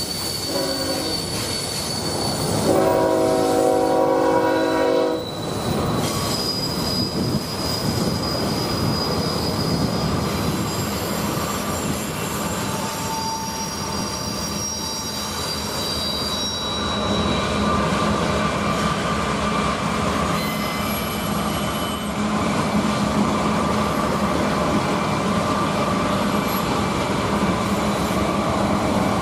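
Freight trains passing: a multi-note locomotive horn sounds briefly at the start and again for about two and a half seconds a few seconds in, while steel wheels squeal with thin high whines over a steady rumble of diesel locomotives and rolling cars that grows louder in the second half.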